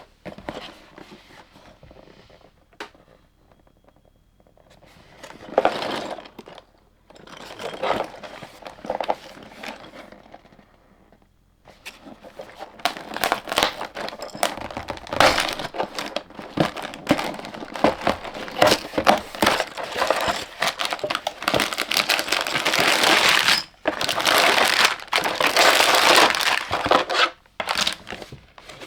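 LEGO set packaging being opened and handled: plastic parts bags crinkling and tearing. It comes in short bursts at first, then crinkles almost without a break through the second half.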